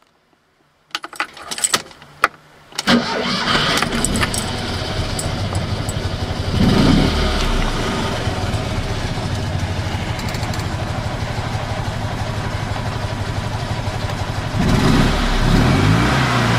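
Fiat 126p's 652 cc air-cooled two-cylinder engine being started: a second of clicks and rattles from the key and a brief crank, then it catches about three seconds in and idles. It is blipped once around seven seconds and revved up and down near the end. The owner says the battery is nearly flat and the starter brushes are worn, though the engine is in very good condition.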